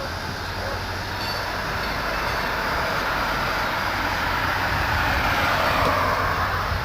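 Freight train rolling past, a steady rumble and rail noise that grows louder toward the end.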